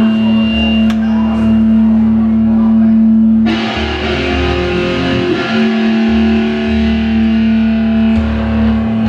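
Live rock band playing, with electric guitar and bass holding long sustained notes. The sound turns suddenly fuller and more distorted about three and a half seconds in.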